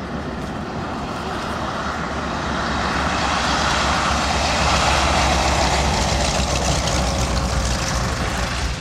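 Propeller aircraft engine passing, swelling to its loudest a little past the middle and then easing off with a slight fall in pitch.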